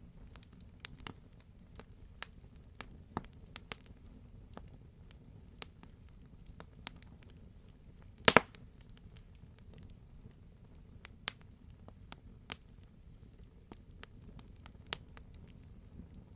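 Wood campfire crackling: scattered sharp pops and snaps from the burning logs, the loudest a quick double pop about halfway through, over a steady low background.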